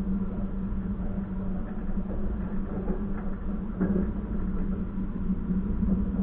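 Moving train running steadily: a constant low hum over rolling rumble, with a faint knock or two.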